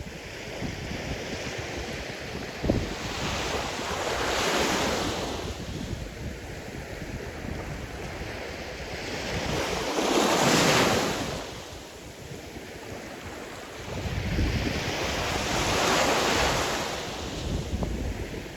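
Sea waves breaking and washing on a shore, swelling three times about every five to six seconds, the middle wave loudest. Wind buffets the microphone with a low rumble underneath.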